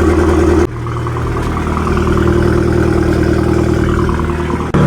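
Heavily modified Abarth Punto Evo Supersport's turbocharged 1.4-litre four-cylinder idling loudly through a decat exhaust with no back box. The sound breaks off abruptly about half a second in and again near the end, where the footage is cut.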